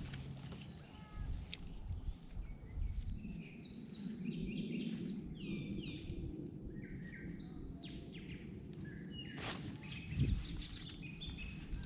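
Small birds chirping rapidly, many short notes each sliding down in pitch, over a low outdoor background rumble. A brief low thump sounds about ten seconds in.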